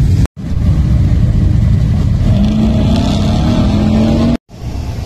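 Cadillac CTS-V's supercharged V8 rumbling as the car rolls by at low speed, with a steady tone that climbs slightly in pitch for a couple of seconds in the middle as the revs rise. The sound cuts out for an instant twice.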